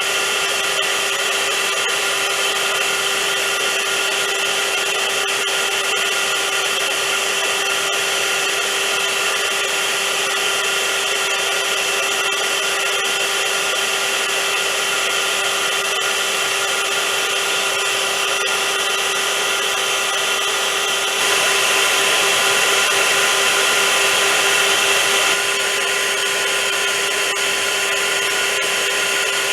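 Vacuum cleaner running steadily: a motor whine over a rush of air. About twenty seconds in it grows louder and brighter for about four seconds, then settles back to its earlier sound.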